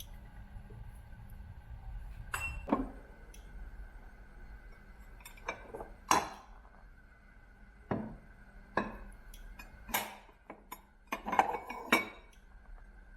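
Kitchen glassware and utensils clinking: a series of separate sharp clinks and knocks, with clusters near the middle and toward the end.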